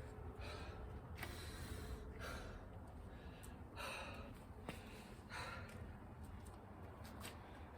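A person breathing hard through the mouth after burpees and chin-ups, with a loud, gasping breath every second or so.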